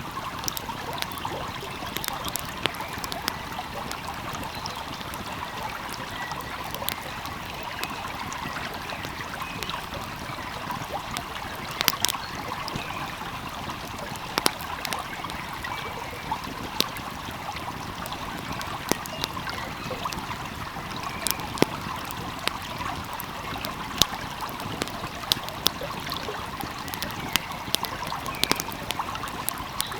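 A flowing stream's steady rush, with a wood fire crackling over it in irregular sharp pops and snaps, a few louder than the rest.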